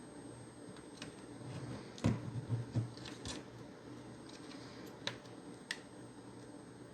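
Handling noise from the plastic case of an Xbox One S internal power supply being worked at by hand to find its clips: scattered light plastic clicks, with a short run of knocks about two seconds in and two sharper clicks near five seconds.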